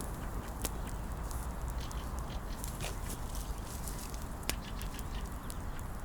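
Wood campfire crackling, with scattered sharp pops, over a steady low rumble.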